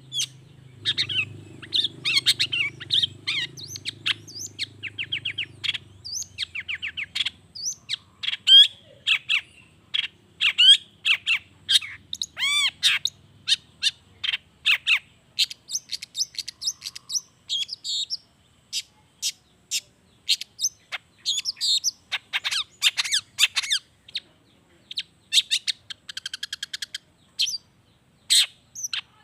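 Long-tailed shrike (cendet) singing a fast, varied song of short chirps, squawks and trills with imitated calls of other birds mixed in, one note after another with hardly a pause. A faint low hum lies under the first few seconds.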